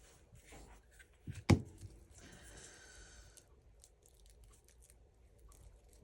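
Paper being handled and torn at a craft table: a sharp knock on the table about a second and a half in, then paper tearing for about a second.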